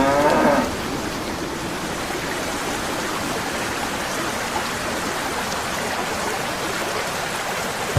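Steady rushing sound of running water, an even hiss with no rhythm. A pitched animal call dies away in the first half second.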